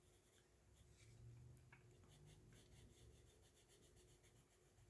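Faint scratching of a Crayola Colors of the World coloured pencil shading on paper in repeated short strokes.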